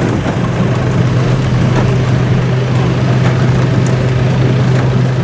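An engine running steadily at a constant speed: a steady hum with a rough low rumble underneath.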